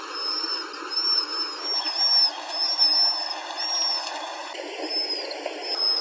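A small wild bird calling: a run of short, high-pitched notes that each rise and fall, about three a second, over steady outdoor background noise.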